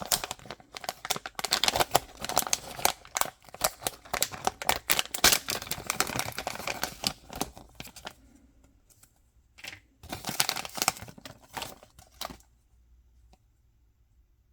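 Toy packaging being crinkled and torn open by hand, a dense run of crackling and ripping that goes on for about eight seconds, then comes back in a shorter spell a couple of seconds later.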